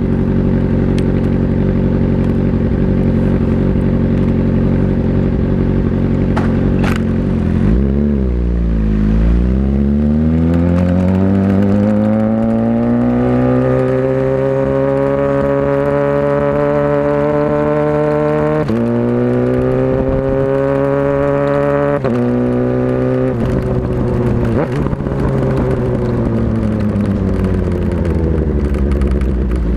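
Motorcycle engine running at a steady pitch, then accelerating about eight seconds in with a long rising pitch, broken by two sudden drops in pitch from gear changes, before the pitch falls away as it slows.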